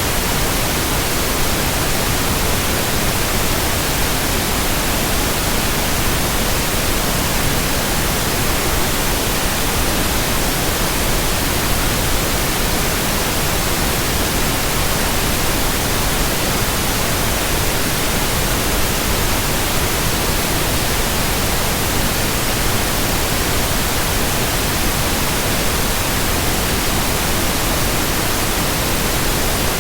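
Steady white-noise hiss, even across low and high pitches, with no hum, beat or change.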